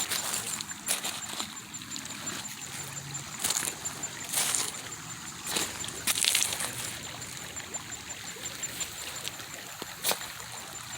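Shallow creek water trickling, with a few brief splashes.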